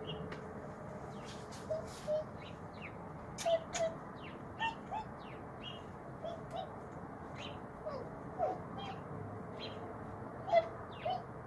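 A flock of birds chirping and calling: many short, sharp chirps, irregular and overlapping, with lower short notes that bend in pitch scattered among them.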